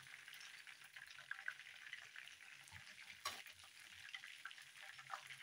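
Chicken wings shallow-frying in a pan of oil: a faint sizzle with small crackles, and one light click about three seconds in.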